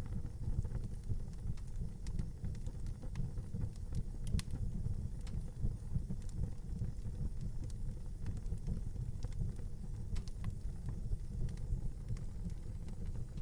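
Wood fire in a fireplace crackling: scattered sharp pops and snaps, one louder pop about four seconds in, over a steady low rumble.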